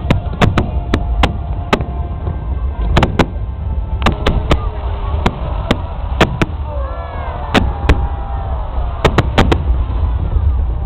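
Fireworks going off in an irregular series of sharp bangs, sometimes in quick pairs and clusters, over a steady low rumble.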